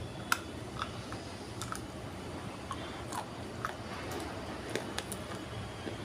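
Multani mitti (Fuller's earth) clay being bitten and chewed: sharp, irregular crunches and cracks about once or twice a second, the loudest just after the start.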